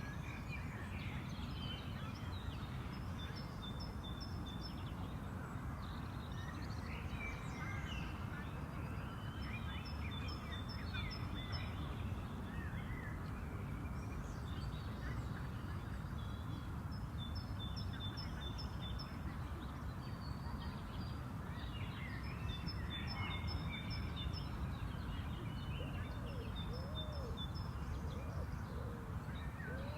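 Park ambience: several songbirds singing and calling, some in quick runs of short repeated high notes, over a steady low background rumble.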